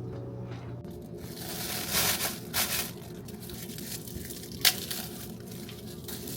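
Crinkling and rustling in bursts, about two seconds in, followed by one sharp click a little past halfway and a few light ticks.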